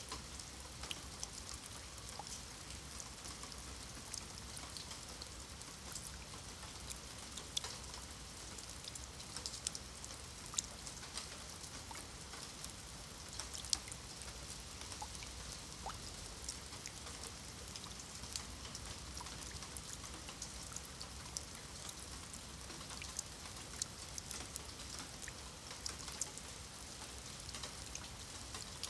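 Rain falling on wet stone paving and shallow puddles: a steady, fairly quiet patter with many separate drop ticks, a few of them louder.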